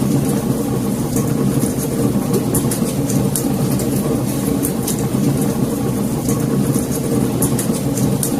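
Wood fire in a fireplace crackling, with many small, irregular pops and snaps, several a second, over a steady low rumble.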